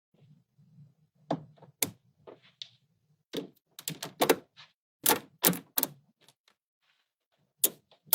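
Small magnets snapping together and knocking on a hard surface: a dozen or so sharp, irregular clicks, bunched in the middle, with one more near the end.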